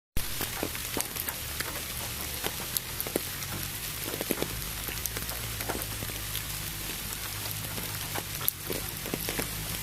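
Steady rain with many separate drop impacts, cutting in suddenly after a moment of silence.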